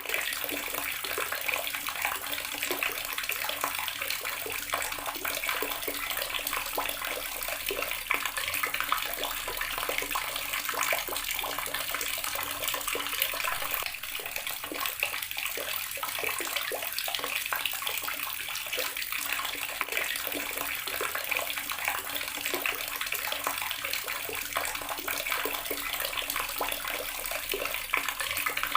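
Water running steadily from a garden tap, splashing and spattering onto the surface below.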